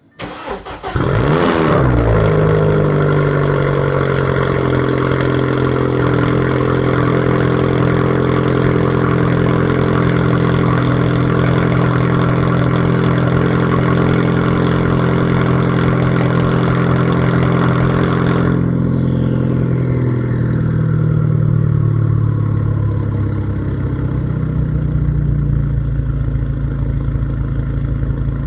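Straight-piped Audi A4 2.0T turbocharged four-cylinder, running through a 3-inch turbo-back exhaust with a test pipe, cold-started: a brief crank, then the engine catches and flares up in revs before settling into a loud, steady, raspy high idle. About 18 seconds in, the idle slowly eases down to a lower speed over a few seconds and stays there.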